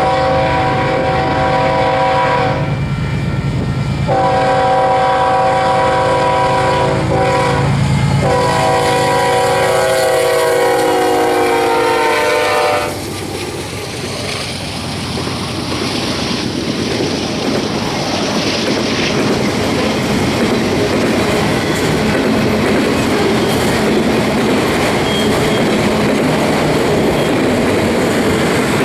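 Union Pacific freight train passing: the lead locomotive's air horn sounds three long blasts, the last one dropping in pitch as the locomotives go by. It cuts off about 13 seconds in. Then autorack and double-stack intermodal cars roll past with steady wheel noise on the rails.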